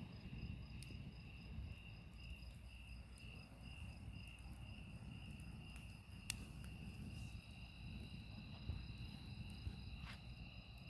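Crickets chirping in a steady, rapidly pulsing high trill, with a second insect tone joining a little past halfway. A few sharp pops from a crackling campfire and a low rumble sit underneath.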